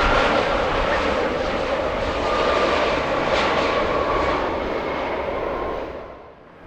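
Jet airliner engines running loud as the aircraft passes, with a whine that drifts slightly lower in pitch; the sound drops away quickly about six seconds in.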